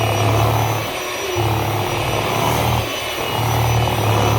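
A small electric motor running with a low hum that pulses, dipping briefly about every second.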